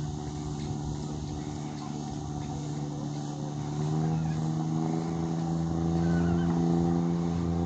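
A motor engine running steadily; about four seconds in it rises slightly in pitch and gets a little louder.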